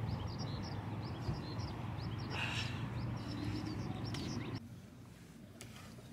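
Small birds chirping in quick, short notes over a steady low rumble. About four and a half seconds in, both drop away to a quieter hush.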